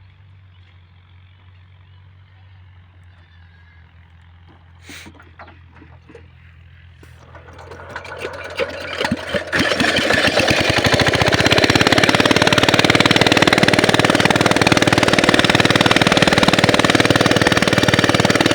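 A small 5 hp diesel water-pump engine starts up. Its slow, separate firing knocks speed up over a few seconds until it runs loud and steady with a fast knocking beat. Before it starts there is only a faint low hum and a single knock.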